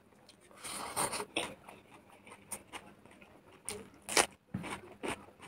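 Close-up eating sounds: chewing a handful of rice with the mouth working wetly, and irregular sharp lip smacks and clicks, the loudest about four seconds in as the fingers are sucked clean.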